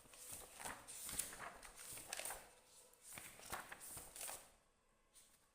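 Irregular rustling and light taps, as of things being handled, dying away about four and a half seconds in.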